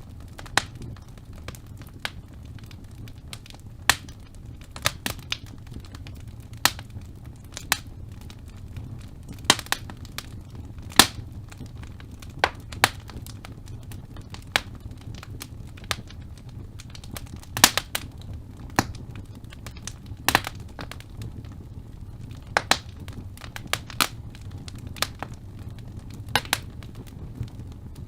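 Wood fire in a fireplace burning, with irregular sharp crackles and pops every second or so over a steady low rumble of the flames.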